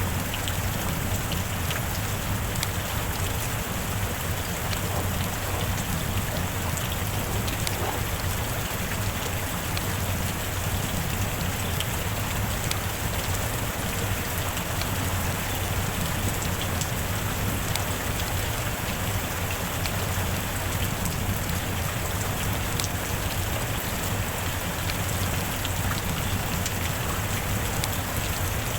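Steady rain falling, an even hiss with a dense scatter of individual drop ticks.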